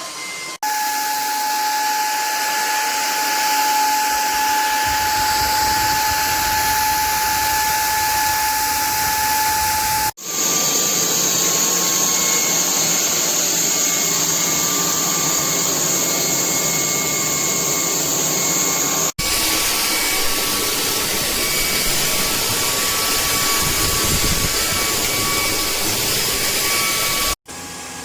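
Bulelink cordless stick vacuum running steadily, a loud whir with a thin motor whine on top. It breaks off abruptly three times and comes straight back with a slightly different whine each time.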